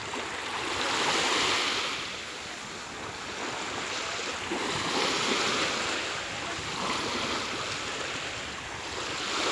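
Small waves of the Sea of Azov washing onto the shore, each wash swelling and fading every few seconds.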